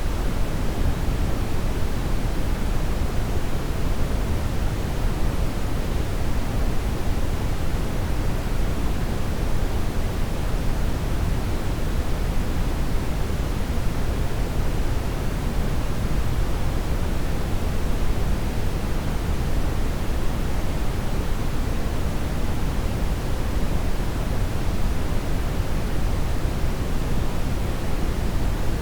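Steady brown noise: an unchanging deep rushing hiss, strongest in the bass.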